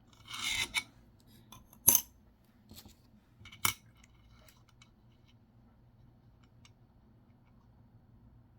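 Nickels being handled on a hard surface: a short scraping slide, then two sharp clicks about two seconds apart, with a few faint ticks in between.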